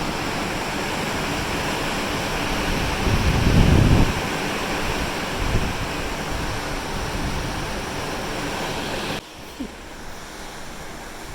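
Wind buffeting the microphone over the steady rush of the sea, with a strong low gust about three to four seconds in. Near the end it drops abruptly to a quieter wash of wind and waves.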